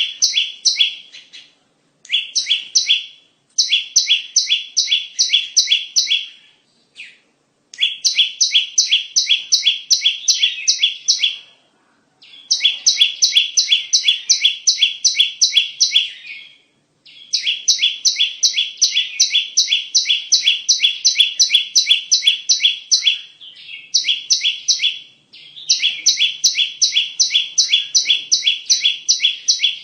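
Bar-winged prinia (ciblek) song used as a lure call: fast runs of sharp, evenly repeated chirping notes, about four or five a second, in bouts of a few seconds broken by short pauses.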